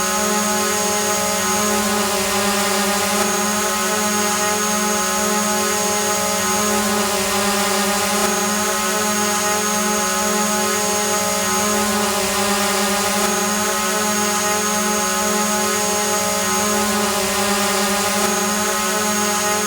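Multirotor drone hovering: a steady, even whine of several propellers, holding one pitch.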